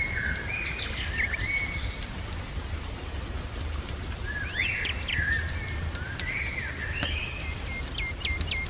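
Songbirds calling in whistled, gliding phrases, with a run of about five quick chirps near the end. Beneath them are a steady low rumble and scattered sharp crackles, in a mix of birdsong with a crackling fireplace.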